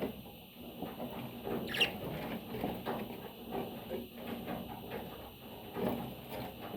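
A pet parrot, likely a budgie, moving about with small scratchy clicks and rustles, and one short rising chirp about two seconds in.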